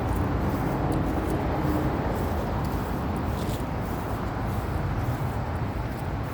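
Steady rumble of road traffic, with a vehicle's low hum fading away over the first two seconds or so.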